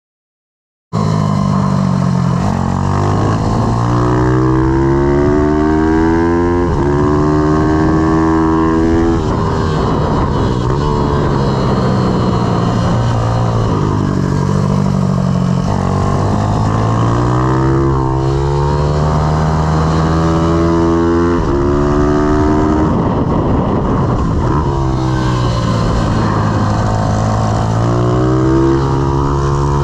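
Pit bike's IMR YX160 single-cylinder four-stroke engine being ridden hard. It starts about a second in, and its pitch climbs for several seconds as it accelerates, then drops back as the throttle closes, over and over.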